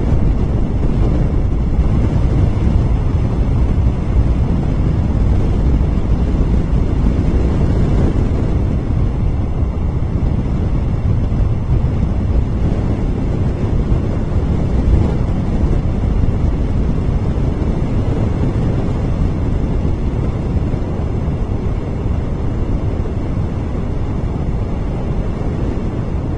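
Wind blowing across an outdoor nest-camera microphone: a steady, loud low noise that holds evenly throughout, with no bird calls heard.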